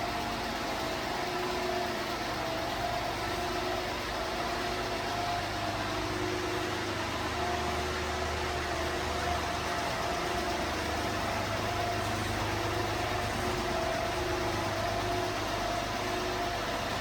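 1995 Honda Acty mini truck's small 656 cc three-cylinder engine idling steadily.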